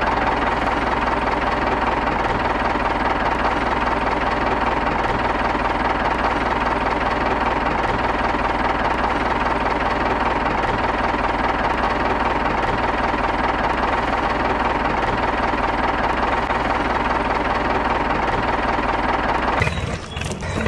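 Diesel tractor engine running steadily with a knocking chug and a constant hum, dipping briefly near the end.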